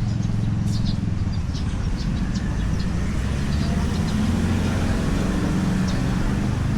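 Road traffic: motor vehicle engines running steadily, with their low hum shifting in pitch as they move.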